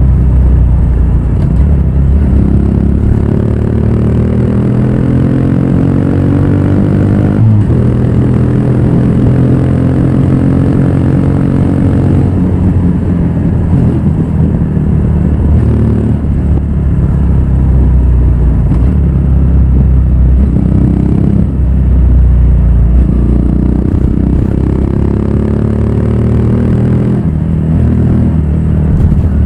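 Honda Grom's single-cylinder four-stroke engine running through a Yoshimura full exhaust while riding, the revs climbing and dropping as it pulls through the gears, with a sharp break at a gear change about seven seconds in.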